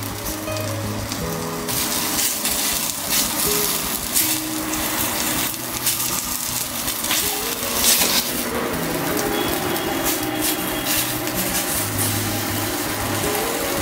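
Beef cubes sizzling in hot oil as they brown in a stainless-steel saucepan, with the hiss getting louder about two seconds in and tongs now and then knocking against the pan as the pieces are turned. Background music plays throughout.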